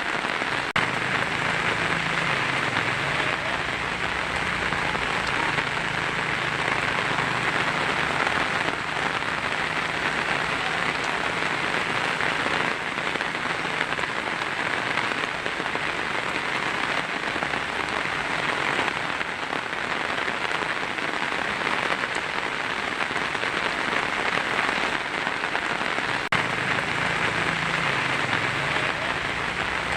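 Heavy rain falling steadily on a tin roof: a dense, even patter with no breaks.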